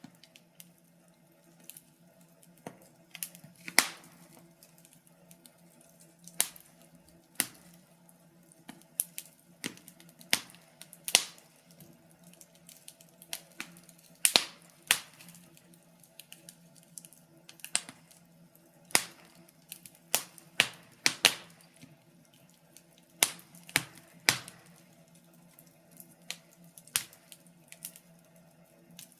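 Wood fire crackling: irregular sharp pops and snaps, one or two a second, over a faint low hum.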